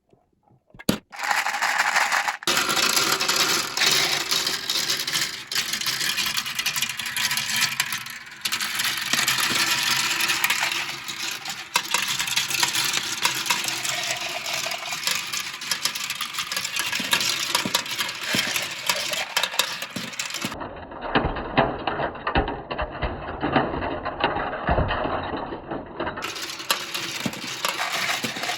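Many marbles rolling and clattering down a plastic Kumikumi Slope marble run, a dense continuous rattle of small clicks and knocks that starts about a second in. For several seconds about two-thirds of the way through, the sound turns duller.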